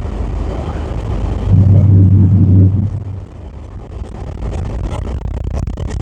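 Steady road and engine noise inside a moving car's cabin, with a louder low rumble for about a second midway.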